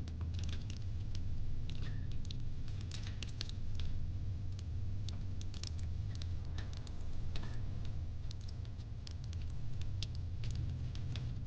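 Wood fire in a fire pit crackling, with irregular pops and snaps over a steady low rumble.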